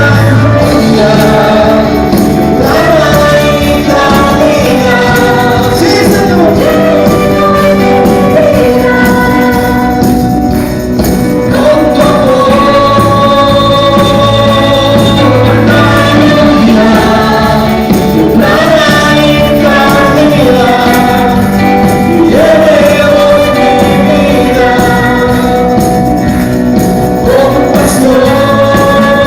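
Live worship band music with group singing of a sustained, slow melody, with tambourine over a steady band accompaniment.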